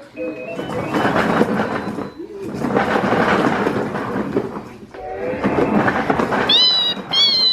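Plastic push-along toy train rolling and rattling across the floor, a loud continuous clatter with brief lulls. Two short high squeals near the end.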